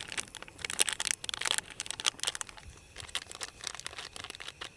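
Irregular crinkling and tearing of a plastic packet, a quick run of sharp rustles and small crackles.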